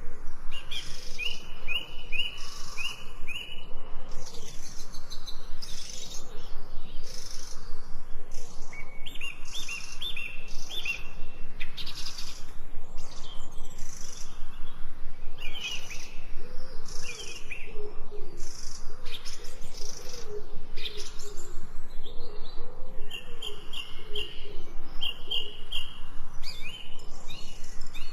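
Birds chirping and singing: short runs of quick, high chirps recur every few seconds, with a lower wavering call joining in the second half, over a steady patter of sharp clicks.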